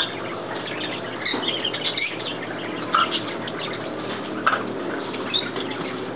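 Several birds chirping and calling in short, scattered notes over a steady background rush.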